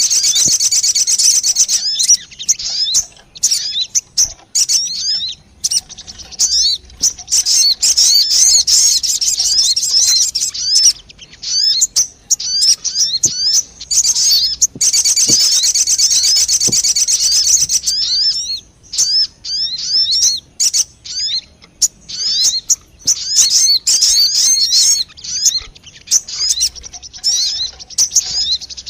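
Lure recording of sogon bird calls: loud, rapid, high chirping notes in long runs broken by short gaps.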